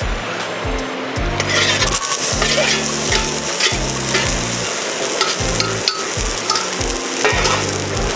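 Food sizzling and crackling as it fries in a pan, growing louder about a second and a half in, over background music with a steady bass line.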